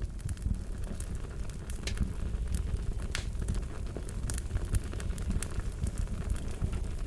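Fire crackling: irregular snaps and pops over a steady low rumble.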